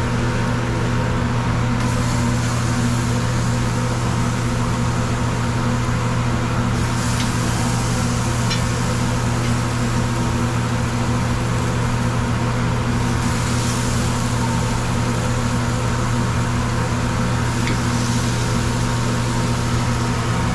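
Steady mechanical hum with a low drone that does not change, with a few faint clicks.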